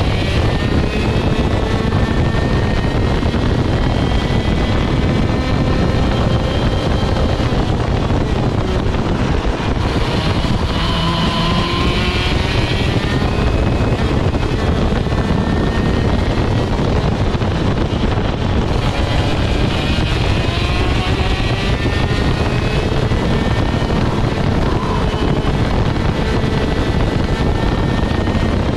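Rok GP 125 cc two-stroke kart engine running under racing load, heard on board, its pitch repeatedly rising as it revs out and falling again as it slows for corners.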